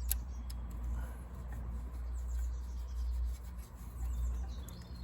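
Light clicks and handling noise of a small nut being threaded by hand onto the sensor pipe bracket in a car's engine bay, over a steady low rumble. Faint bird chirps are in the background.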